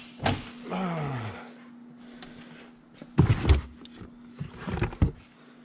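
Handling knocks and thumps: a sharp knock near the start, a short falling groan-like sound, then a heavy thump about three seconds in and lighter knocks after it, over a faint steady hum.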